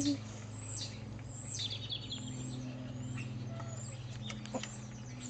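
Songbirds chirping, a run of quick high notes that each drop in pitch, over a steady low hum. A soft knock at the start and another near the end.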